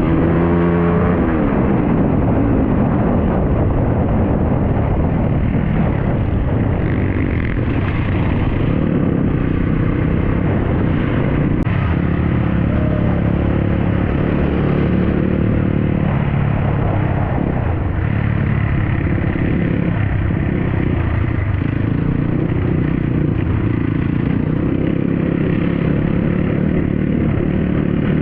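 Dirt bike engine running while riding, its revs dropping about a second in and then holding steady.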